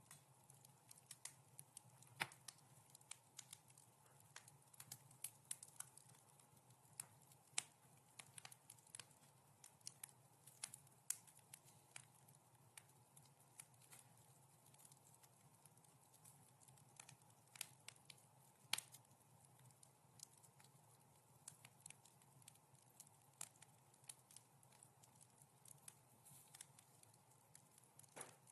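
Wood fire crackling: irregular sharp snaps and pops, a few louder than the rest, the loudest about two-thirds of the way through, over a faint steady low hum.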